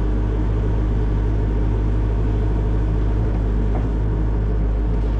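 Excavator diesel engine running steadily, a constant low hum.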